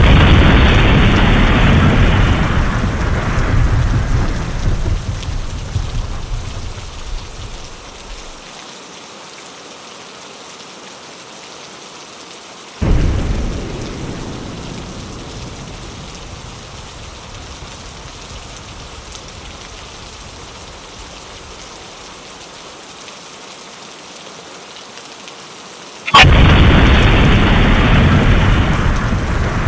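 Steady rain on a window, with three sudden claps of thunder that rumble and die away over several seconds: one at the start, a weaker one about halfway through, and a loud one near the end.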